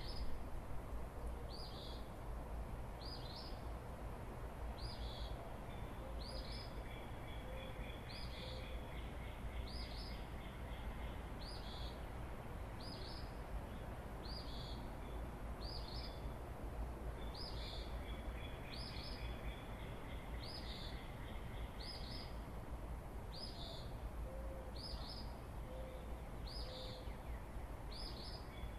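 A bird repeats one short, high, down-slurred call note about every second and a half in the pre-dawn chorus, with fainter birds singing behind it. Twice, a run of three soft low notes sounds, over a steady low rumble of breeze.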